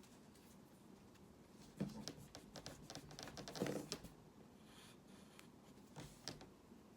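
Faint taps and short scratchy strokes of a pen on a drawing surface, in a busy run from about two to four seconds in and a few more near six seconds.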